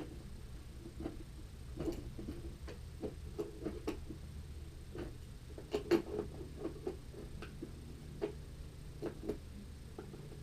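Scattered, irregular clicks and light knocks of tools and skateboard hardware being handled while trucks and wheels are taken off and put on.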